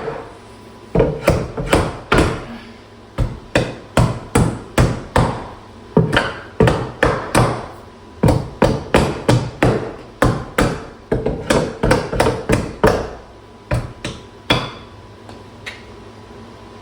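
Hammer blows struck in quick runs of several strikes, with short pauses between runs, on a stuck part that won't budge. The strikes stop about two seconds before the end.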